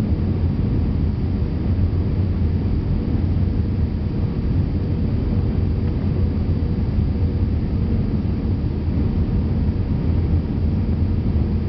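Steady cabin noise inside an Airbus A321 airliner: an even, low rumble of the engines and the air rushing past the fuselage, with a faint steady hum above it.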